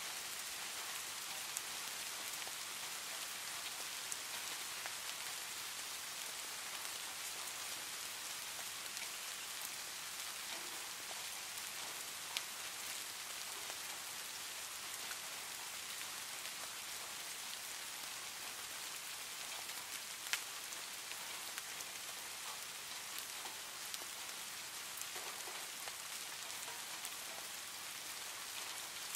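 Steady rain falling, an even patter with scattered sharper single drop ticks standing out now and then.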